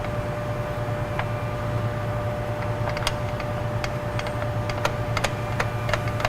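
Scattered light metallic clicks and taps from rear drum brake hardware being fitted by hand (shoes, springs, adjuster lever and star-wheel adjuster), coming more often in the second half. Under them run a steady low hum and a faint high whine.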